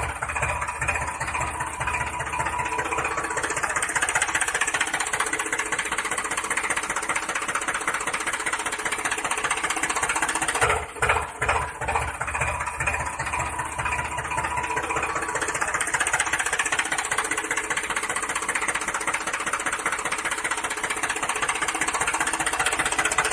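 Tractor engine running steadily, with a few brief drops in loudness about halfway through.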